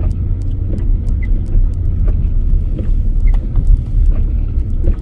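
Cabin noise of a pickup truck driving on a snow-covered road: a steady low rumble of engine and tyres, with frequent small clicks and crackles over it.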